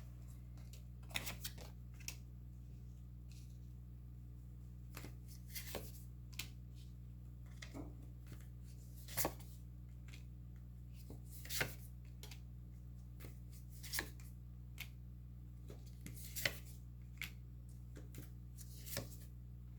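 Tarot cards being handled and laid down: a dozen or so short, soft snaps and taps spaced a second or more apart, over a steady low hum.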